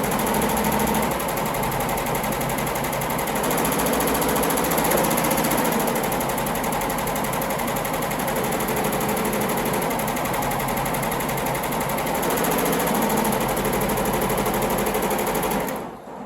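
Yoshiko embroidery machine running, its needles stitching in a fast, steady mechanical clatter that stops shortly before the end.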